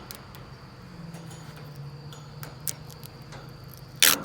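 Insects trilling steadily in a high, thin tone, over a low steady hum, with a loud brief rustle or knock near the end.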